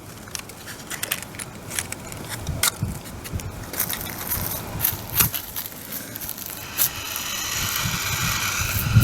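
Dry twigs and leaves of a small campfire being kindled: irregular crackles and snaps, getting louder and denser toward the end as the fire catches.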